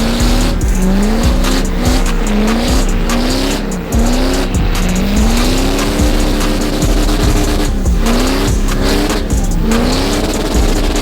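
Straight-piped diesel pickup engine revved hard again and again, its pitch sweeping up and dropping back in quick blips, with one longer climb held at high revs in the middle.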